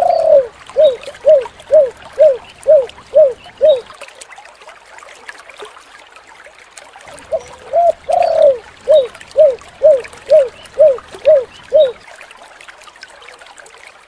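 Spotted dove (tekukur) cooing: two song phrases, each a longer coo followed by a run of seven short, evenly spaced coos, about two a second. A steady trickling, water-like hiss runs underneath.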